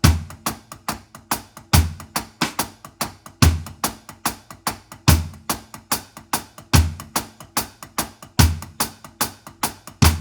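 Drum kit playing a reggae one-drop groove. Shuffled sixteenth notes run on the hi-hat, and the bass drum and snare land together on beat three of each bar, roughly every second and three-quarters.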